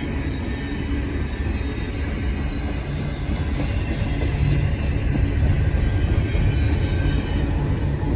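Freight train passing close by: a steady, heavy rumble of the rolling train.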